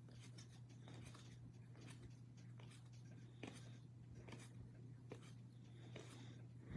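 Faint soft ticks and rustles of trading cards being handled and flipped through, about once or twice a second, over a steady low electrical hum, with a sharper knock at the very end.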